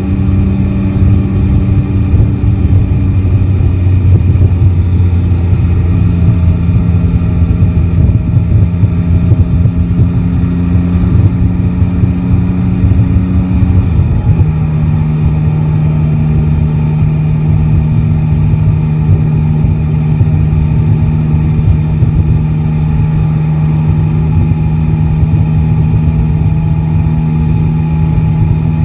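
Yamaha Tracer 9 GT's 890 cc inline-three engine running at a steady pitch under way, with wind and road noise. The engine note drops a step about six seconds in and again, more clearly, about fourteen seconds in.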